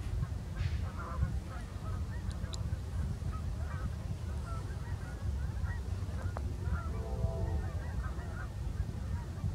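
Steady low rumble of a distant diesel freight train approaching, with many short bird calls scattered over it.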